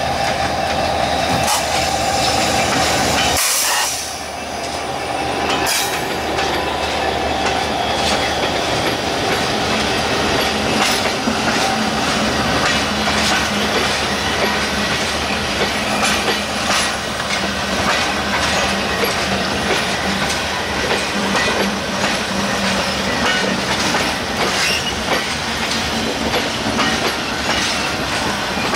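Diesel-electric EMD locomotive passing close by with a steady drone, which drops away about three and a half seconds in. A train of passenger coaches then rolls past, its wheels clicking repeatedly over the rail joints.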